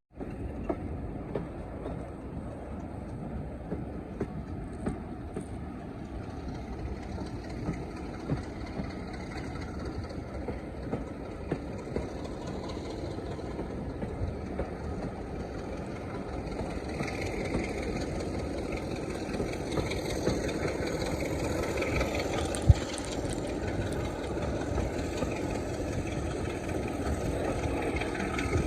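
Diesel locomotive running, growing louder over the second half, with scattered clicks and one sharp knock a few seconds before the end.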